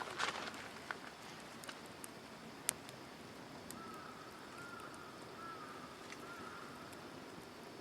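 Quiet outdoor ambience with a steady low hiss. A few soft crunches at the start and a single sharp crack a little before the middle. Then a bird calls four short arching notes, evenly spaced.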